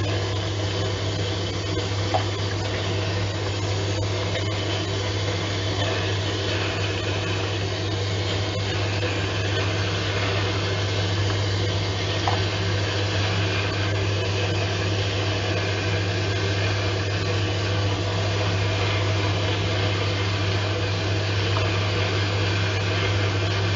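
Pet microbubble bath generator running steadily: a constant low pump hum under a hiss of water and bubbles.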